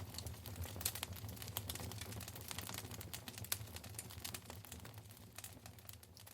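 Wood fire crackling in a fireplace: frequent sharp, irregular pops and snaps over a low steady hum, gradually fading over the last few seconds.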